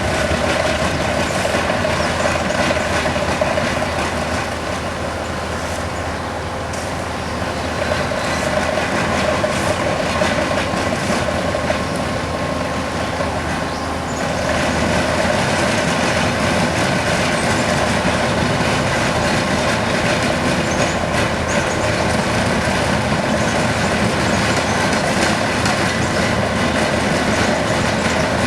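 Bobcat skid steers working the road: diesel engines running with a steady grinding, scraping noise from the milling and sweeping attachments. The noise eases a little between about four and eight seconds in and comes back louder about fourteen seconds in.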